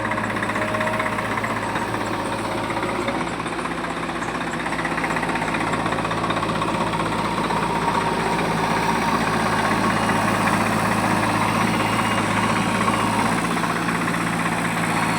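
A heavy diesel engine of a JCB backhoe loader or tractor running steadily, a low hum that grows somewhat louder from about five seconds in.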